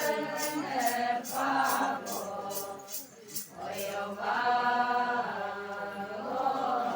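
Voices singing a chant-like song in long held notes, with a steady shaken-percussion beat of about two and a half strokes a second that fades out a little past halfway.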